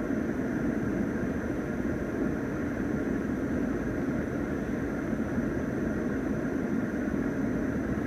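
Steady background noise inside a car's cabin: a constant rushing hum with a faint, steady high-pitched whine above it.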